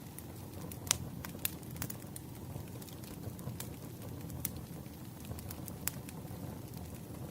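Wood fire burning, a steady low rumble with irregular sharp crackles and pops from the burning logs, the loudest pop a little under a second in.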